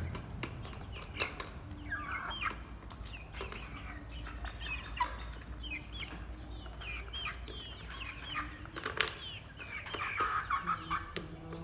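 Chickens calling: many short, scattered chirps and clucks, with a few sharp clicks among them.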